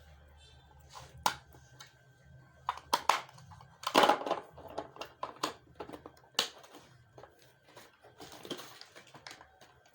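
Irregular clicks, taps and knocks of a robot vacuum and its parts being handled during unboxing, the loudest about four seconds in.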